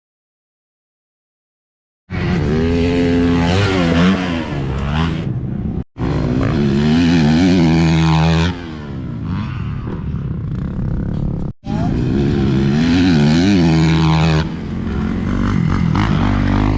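Motocross dirt bike engines revving hard and shifting on a racetrack, the pitch climbing and dropping again and again. The sound starts about two seconds in and comes as three short clips, each cut off suddenly.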